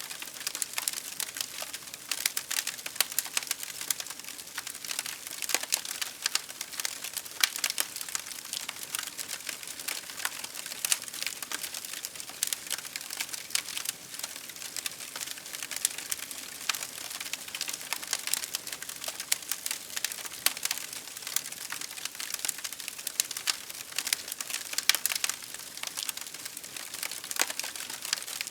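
Wood fire crackling: a dense, irregular run of sharp pops and snaps over a soft hiss.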